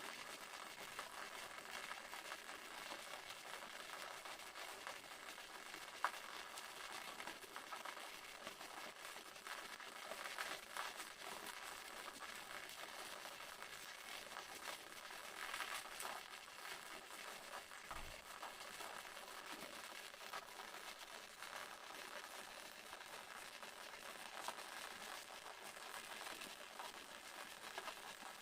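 Small temple waterfall splashing steadily: a faint, even rush of falling water with fine crackle, and a single sharp click about six seconds in.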